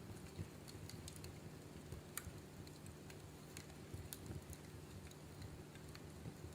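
Wood fire crackling in a fireplace: faint, irregular sharp pops and snaps over a low, steady rumble of the flames.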